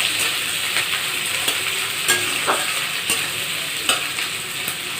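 Sliced onions sizzling in hot oil in a kadai, a steady hiss, while a spoon stirs them, scraping and clicking against the pan about once a second.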